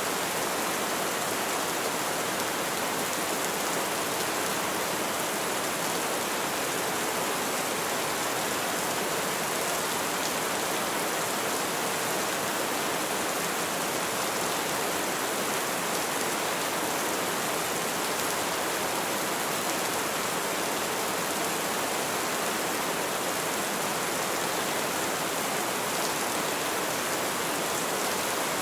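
Heavy rain falling steadily, a dense, even hiss with no thunder in this stretch.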